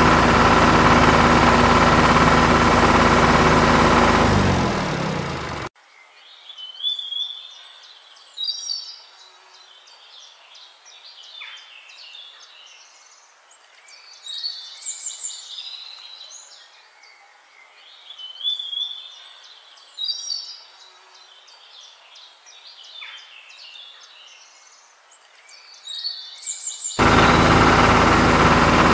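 A steady engine sound for the first few seconds drops in pitch and cuts off, followed by songbird chirps in one short phrase that repeats the same way about every six seconds, like a looped recording. A loud, steady sound comes back about two seconds before the end.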